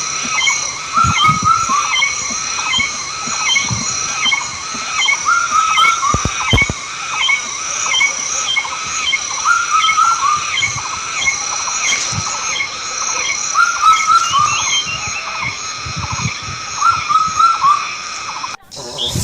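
Outdoor animal calls: short, pitched chirps repeating two or three times a second over a steady high-pitched buzz, cut off abruptly near the end.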